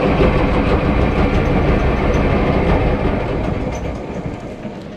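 Sailboat's propeller shaft freewheeling while under sail, a loud steady mechanical running noise that dies down over the last second or so. The shaft is spinning because the feathering propeller has not feathered, which the owner puts down to it needing lubrication.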